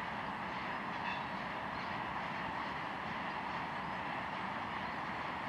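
Tank cars of a long freight train rolling past, a steady noise of steel wheels on rail.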